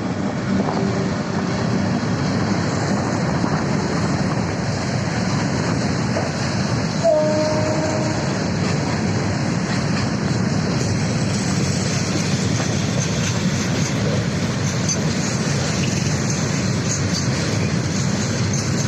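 Electric locomotive-hauled train running steadily, with a short horn note about seven seconds in.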